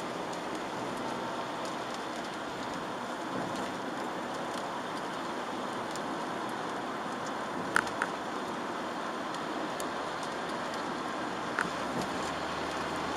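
Inside a Chevrolet Aveo driving on wet city roads in the rain: a steady hiss of tyres and rain over the car. A couple of sharp clicks come in pairs, once about two-thirds of the way through and again near the end.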